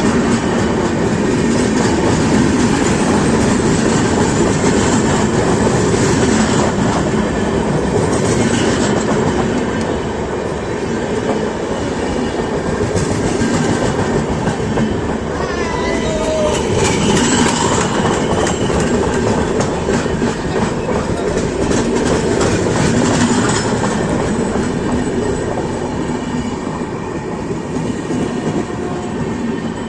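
Indian Railways train running, a steady loud rumble of wheels on rail with many quick clicks throughout.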